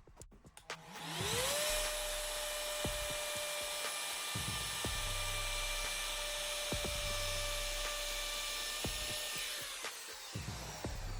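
Electric wood router motor spinning up to full speed about a second in, running at a steady high-pitched whine for about eight seconds, then winding down near the end.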